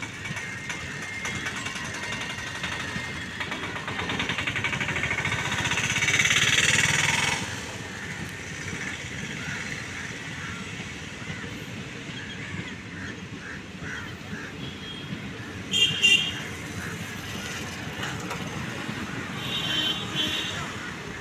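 Indian Railways passenger train rolling past, mixed with road traffic. A passing vehicle swells loud about seven seconds in and then drops away. Short horn toots come about sixteen seconds in and again near the end.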